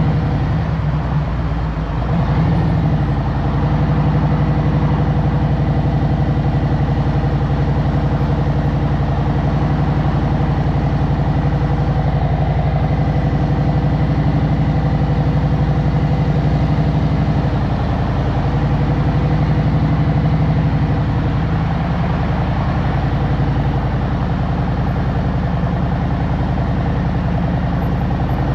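Harley-Davidson Road Glide Special's Milwaukee-Eight 114 V-twin running with an even, steady engine note, with a slight dip about a second in and again about two-thirds of the way through.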